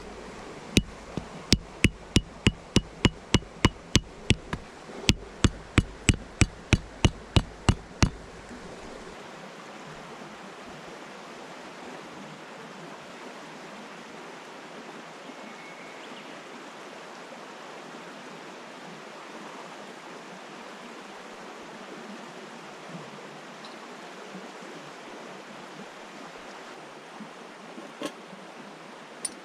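Sharp, evenly spaced knocks, about two and a half a second, stop about eight seconds in. A steady rush of river water carries on after them, with a couple of faint clicks near the end.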